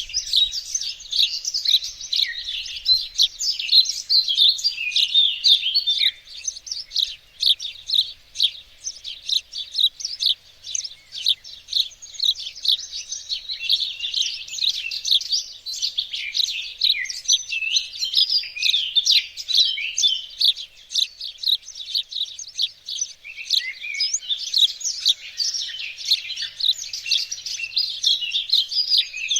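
Several small songbirds chirping and singing together, a dense, continuous chorus of quick, high chirps and trills.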